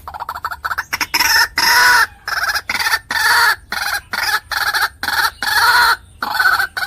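White-breasted waterhen calling: a long run of loud, harsh repeated notes, about two a second.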